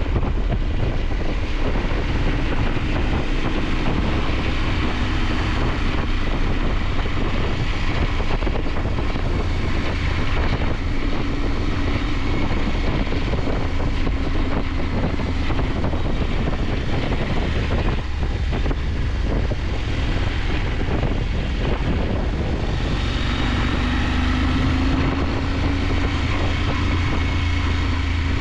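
KTM 890 Adventure's parallel-twin engine running under way, with heavy wind rush over the microphone. The engine note shifts in pitch and grows stronger about 23 seconds in.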